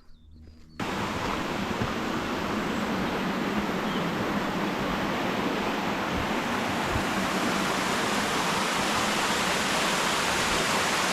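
Steady, loud rush of flowing water, like a waterfall or fast stream, starting abruptly about a second in.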